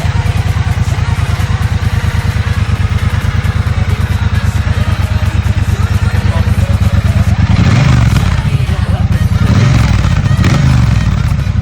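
Triumph Bonneville Speedmaster 1200's parallel-twin engine running through its exhaust with a steady, even pulsing beat. It is revved up twice, about eight and ten seconds in.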